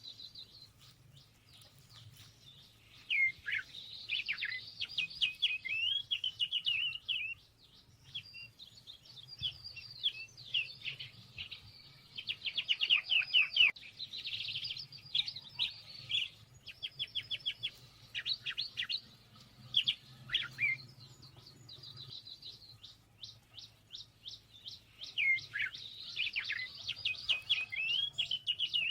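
Small songbirds chirping and twittering, with repeated runs of rapid notes and quick downward-sweeping calls, several birds calling over one another.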